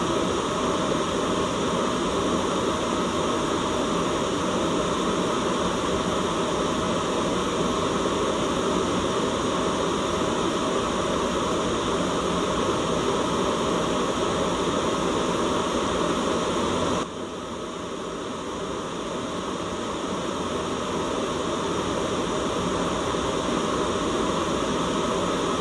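Steady white noise, a continuous even hiss. About two-thirds of the way through it drops abruptly in level and swells back over several seconds.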